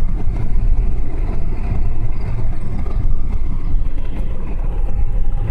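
Steady rumble of a car driving, heard from inside the cabin: engine and road noise with no sharp events.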